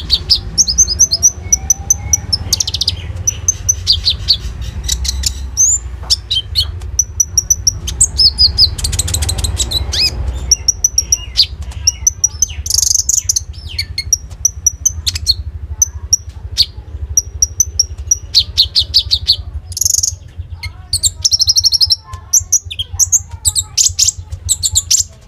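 A konin songbird singing a long, varied song of fast trills and sharp chirps, laced with phrases copied from other birds, over a steady low hum.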